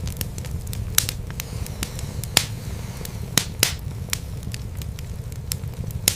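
Wood fire in a fireplace crackling, with a steady low rumble of the flames and sharp pops: the loudest about a second in, near the middle, a quick pair a little later, and one near the end.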